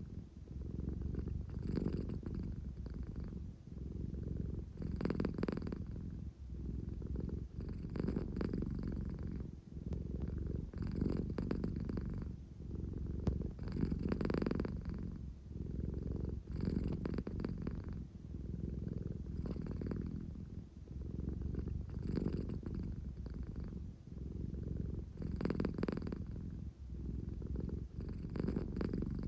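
American Shorthair cat purring steadily, the purr swelling and fading with each breath about every three seconds.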